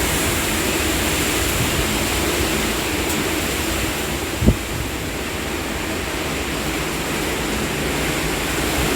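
Steady rushing wind of an approaching dry storm, blowing across the microphone, with one brief low thump about four and a half seconds in.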